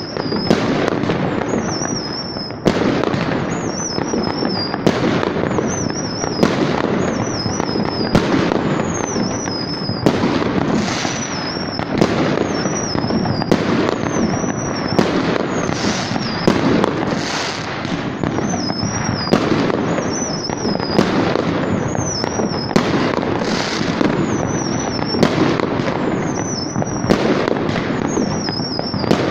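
Many New Year's fireworks going off at once across the city: a dense, continuous crackle and rumble of bangs, with a sharper single report every second or two.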